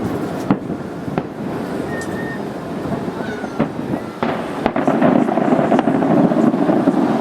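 Aerial fireworks exploding: separate sharp bangs in the first half, then a denser, louder run of bursts from a little past halfway.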